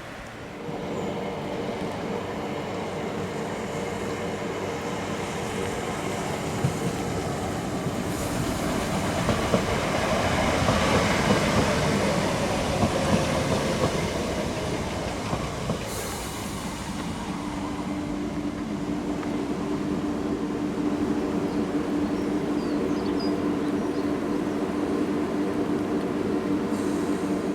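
Class 37 diesel locomotive passing with a Class 320 electric unit in tow: a steady engine drone over the rumble of the train, loudest about a third of the way through, with a strong steady tone holding through the last third.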